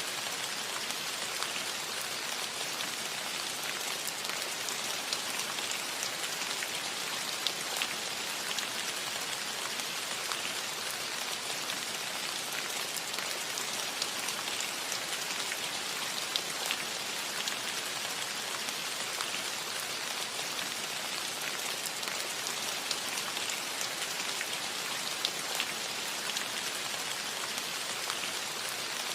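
Steady rain falling on a cottage roof: an even hiss with many separate drops tapping through it.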